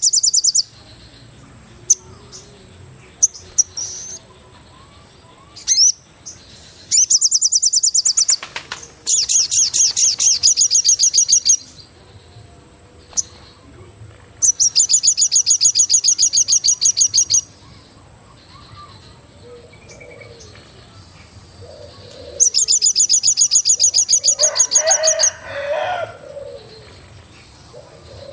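Forest wildlife ambience: loud, rapid, evenly pulsed high trills come in four bursts of two to three seconds each, over a thin steady high tone. A lower call follows the last burst, about three-quarters of the way through.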